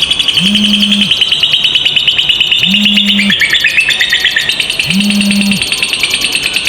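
Lovebird 'ngekek': a long, rapid chattering trill of fast, even high chirps with no break, dipping lower in pitch for about a second midway. Beneath it a low steady tone sounds for under a second about every two seconds.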